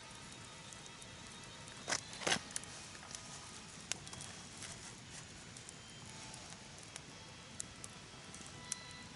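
Wood fire crackling with scattered sharp pops, the loudest a pair about two seconds in and another near four seconds, over a low steady hiss.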